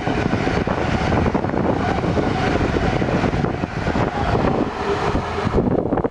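Intermodal freight train rolling past close by, a steady loud rumble of wagon wheels on the rails with rapid irregular clattering. The higher hiss drops away shortly before the end.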